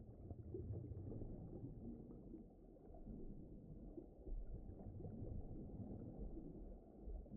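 Low rumbling underwater ocean ambience, a dull wash of deep water noise that swells and ebbs unevenly.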